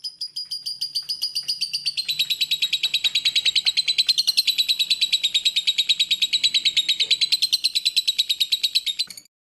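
Lovebird singing a long, rapid chattering trill of high chirps, about ten notes a second. The trill dips slightly in pitch about two seconds in and breaks off abruptly near the end.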